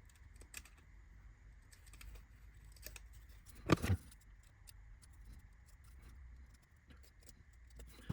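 Light clicks and small clatter of laser-cut wooden kit parts being handled on the bench, with one louder knock about four seconds in as a piece is put down.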